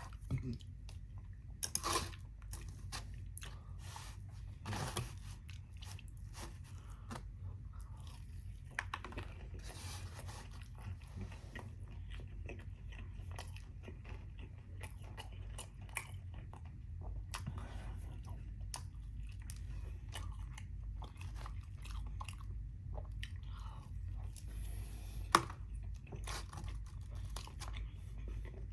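A person chewing and biting into fried chicken chunks, with crunching from the breaded coating and wet mouth clicks. There is one sharper click near the end.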